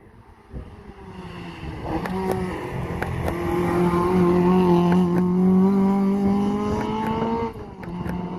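Ford Escort hill-climb car approaching under hard acceleration, its engine note building and slowly rising in pitch, then dropping suddenly near the end as the driver shifts or lifts before the engine pulls on again.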